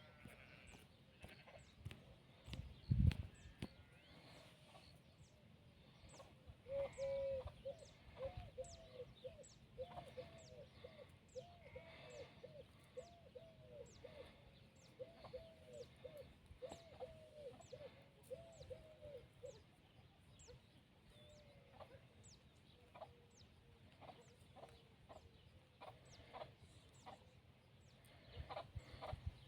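Chickens clucking: a run of short, rising-and-falling calls from about seven to twenty seconds in, over thin high chirps that repeat about once a second. A dull low thump comes about three seconds in.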